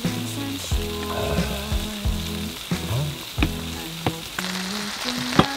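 Dak-galbi (spicy chicken) sizzling on a hot grill plate, with several sharp clicks, the loudest near the end. Background music with held notes plays over it.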